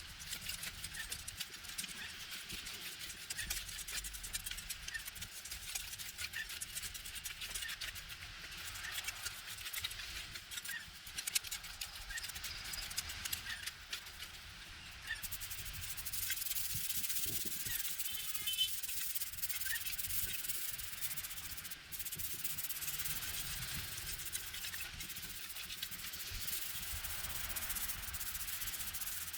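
Continuous abrasive rubbing against a surface, a steady scratchy sound of scrubbing or sanding-type cleaning work, a little louder in the second half.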